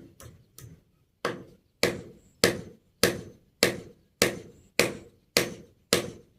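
Hammer driving a nail into wood: a few light tapping strikes, then from about a second in a steady run of hard blows, a little under two a second.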